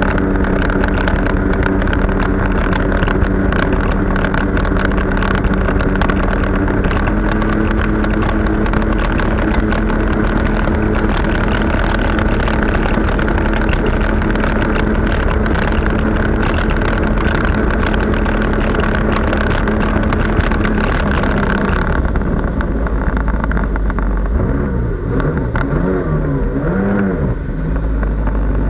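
Jet ski engine running steadily at speed under a rushing noise. Its pitch steps up slightly about seven seconds in. Past the middle it slows, the rushing drops away, and its pitch then swings up and down for a few seconds.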